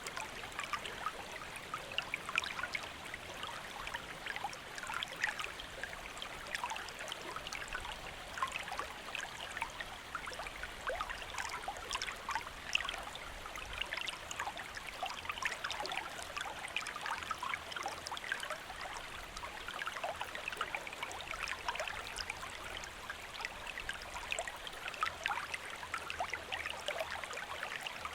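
Shallow stream flowing steadily over rocks, a continuous babbling rush full of small splashes and trickles.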